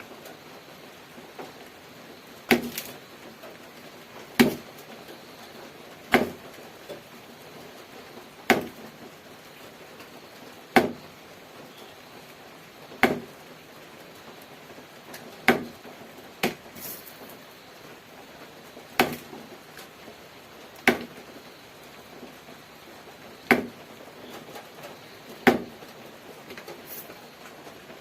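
Sharp single clicks or taps, about one every two seconds and a little irregular, over a steady faint hiss.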